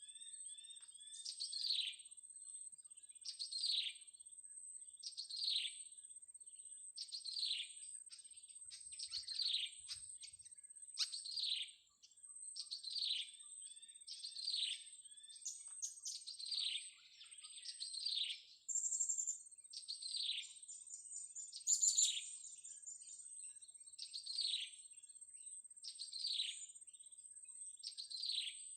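Blue-crowned hanging parrot (serindit) calls: short, shrill, high-pitched notes, each sweeping quickly downward, repeated about every second and a half, over a faint steady high whine.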